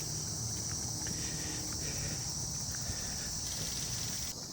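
Steady high-pitched chorus of insects, such as crickets, that cuts off suddenly near the end, over a low rumble with faint scattered taps.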